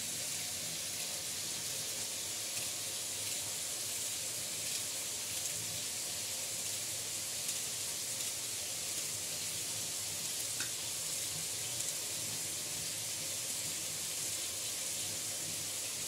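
Tomatoes frying in oil in a pan on a gas stove, giving a steady sizzle.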